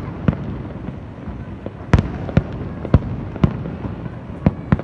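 Fireworks bursting: about eight sharp bangs at irregular intervals, over a steady rumble of further explosions.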